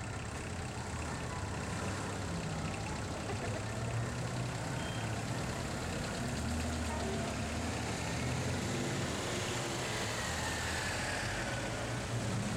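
A line of vintage Citroën cars, a Traction Avant followed by 2CVs, rolling slowly past at low revs with their engines running steadily.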